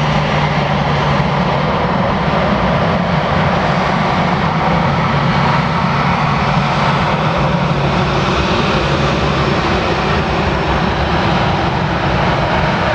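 Jet engines of an Airbus A320-200 airliner during landing: a loud, steady engine noise. A low hum in it is strongest in the first few seconds, then fades.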